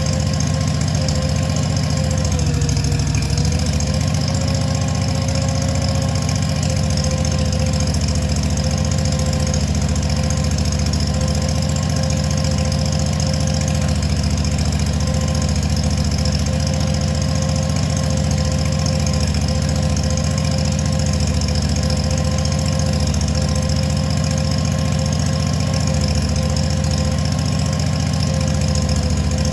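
Ventrac compact tractor's engine running steadily, with a steady high whine over the engine note that wavers briefly a few seconds in.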